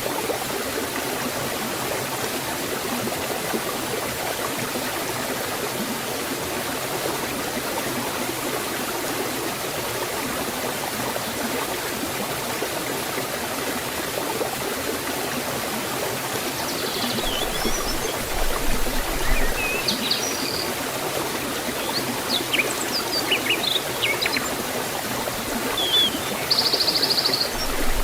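Forest stream or small waterfall rushing steadily. Birds chirp and whistle over it in the second half.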